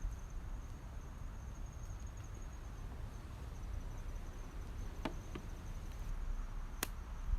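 Outdoor ambience: a thin, steady, high insect trill over a low rumble like wind, with a few sharp clicks in the second half.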